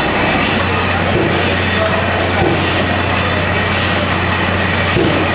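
Old stationary internal-combustion engine running, with a steady low drone that comes in about half a second in over general machinery noise.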